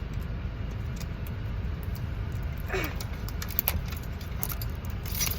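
Light clicks and rattles of a toy blind-box package being handled, over a steady low rumble.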